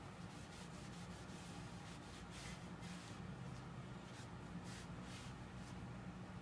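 Faint rubbing and light handling noises, a scatter of soft short clicks and scrapes, over a low steady hum.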